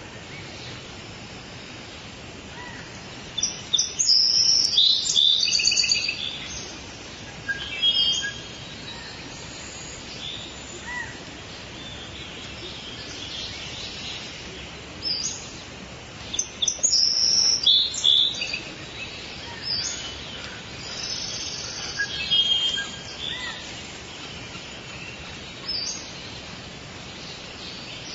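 Birds chirping and singing over a steady background hiss of forest ambience, with two loud bursts of rapid chirps about four and sixteen seconds in and scattered short whistles between.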